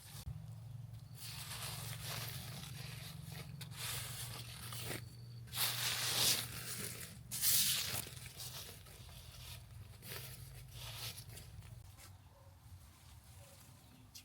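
Rustling and tearing handling noises, with two louder bursts about six and seven and a half seconds in, over a low steady hum.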